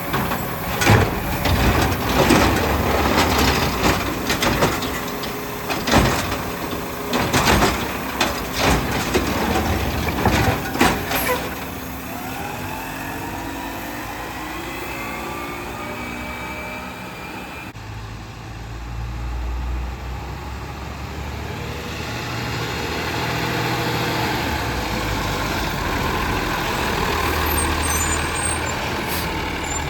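Garbage truck at work: a run of loud, sharp metallic clanks and bangs for about the first eleven seconds, then the engine revving up under a rising whine from the hydraulics. Near the middle the sound changes suddenly to the truck's engine running with a steady low rumble.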